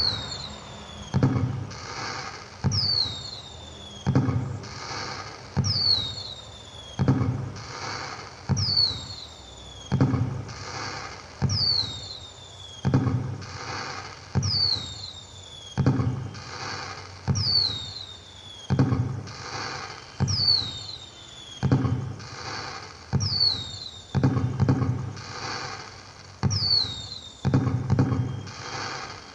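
Looping firecracker sound effect played by an LED pixel cracker light's sound unit. Each cycle is a short falling whistle followed by a bang, repeating about every second and a half.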